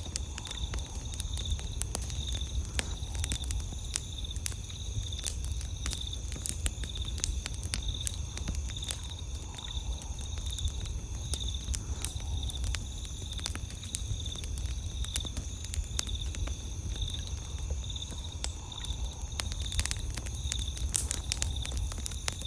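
Wood campfire crackling with frequent irregular sharp pops, over a steady low rumble. Insects keep up a continuous high-pitched trill with an even pulsing chirp beneath it.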